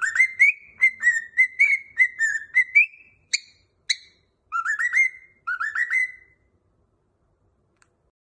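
Cockatiel whistling a tune: a quick run of whistled notes around one pitch, two short higher notes, then two rising phrases, after which it stops.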